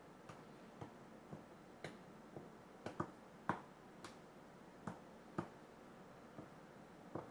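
About a dozen light, sharp taps and clicks at an uneven pace, roughly two a second, from kitchen utensils knocking against dishes or a work surface; the loudest comes about halfway through.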